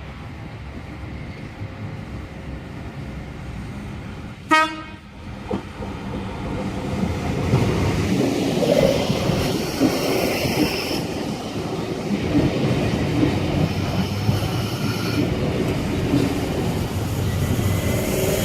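Sydney S set electric suburban train giving one short horn blast, then rolling into the platform with a rising rumble, a high whine and its wheels clacking over rail joints as it arrives.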